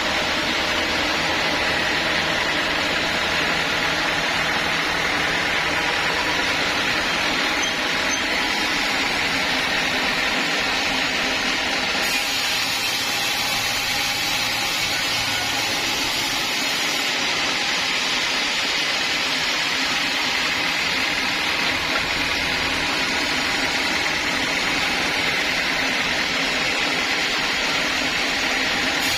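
Sawmill saw running steadily as it cuts teak timber into beams: a continuous rushing noise with a steady high whine through it.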